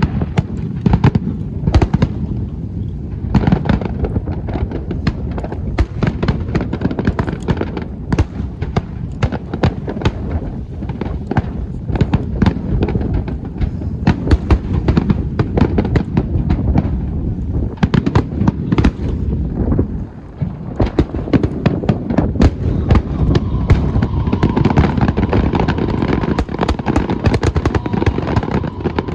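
Aerial fireworks bursting in rapid, overlapping bangs and crackles over a continuous low rumble, with a brief lull about two-thirds of the way through.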